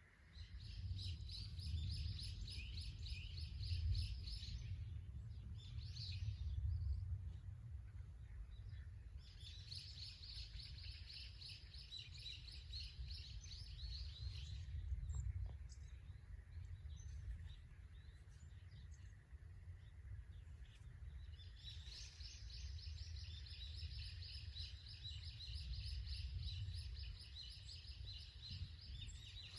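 A bird singing in long, fast trills of repeated high chirps, broken by pauses of a few seconds, over a steady low rumble. A few faint clicks come about halfway through.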